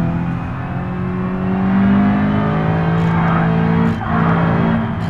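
Car engine revving under acceleration, its pitch climbing over the first two seconds and then holding, with brief dips about four seconds in and near the end.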